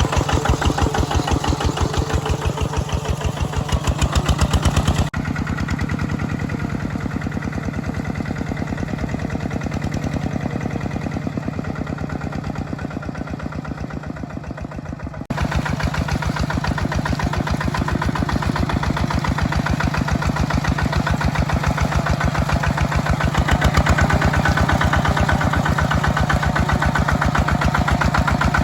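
Mini tractor engine running with a steady, rapid chug while plowing a muddy field. The sound turns abruptly duller and a little quieter about five seconds in, then returns to full brightness about fifteen seconds in.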